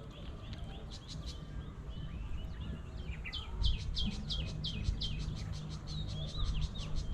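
A songbird singing a run of short, quickly falling high notes, about three a second, over a steady low rumble.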